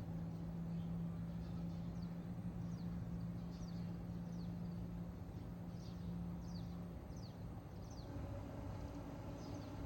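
Small birds chirping: short high notes that sweep quickly downward, repeated at irregular intervals. Under them runs a low steady hum that stops about seven seconds in, and a different, higher hum starts about a second later.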